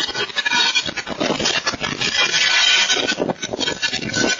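Strong wind blowing in gusts, with constant rattling, crackling and scraping over a loud rushing noise.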